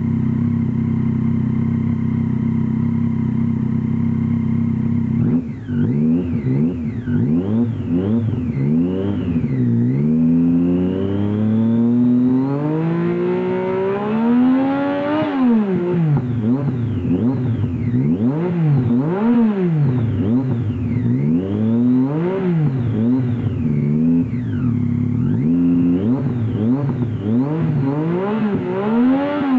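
Triumph Street Triple R's inline three-cylinder engine through a QD Magnum exhaust. It idles steadily, then from about five seconds in it is revved over and over: one long climb to high revs, then a string of quick throttle blips, each rising and falling.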